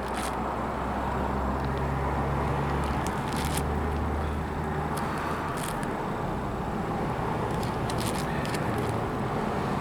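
Pages of a three-ring binder being turned, a few short paper rustles and clicks over a steady low hum.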